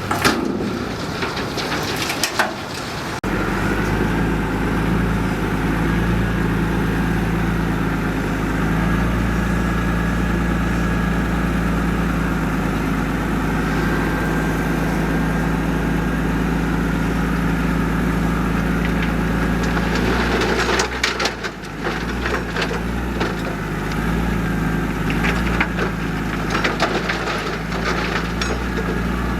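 Heavy construction machine's diesel engine running steadily, with bursts of crunching and crackling from soil and stones being moved, in the first few seconds and again about two-thirds of the way through.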